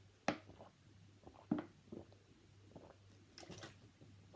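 Person eating close to the microphone: chewing with a few sharp wet mouth clicks, the loudest about a third of a second and a second and a half in, over a faint steady hum.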